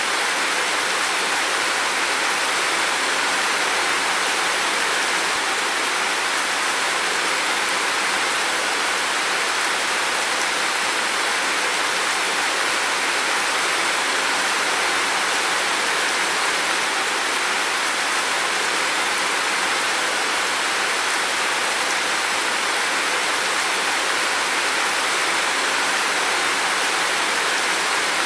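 Heavy rain falling, a steady, even hiss of dense rainfall without individual drops standing out.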